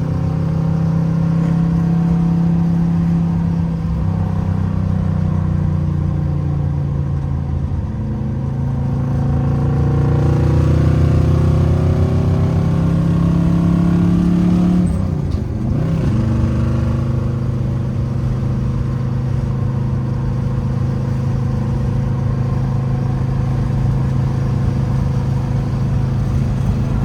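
1968 Camaro's 327 small-block V8 running under way with a 4-speed manual: revs climb in gear, drop sharply at a gear change about fifteen seconds in, then hold steady at a cruise. The engine is running smoothly, its dead-cylinder misfire cured.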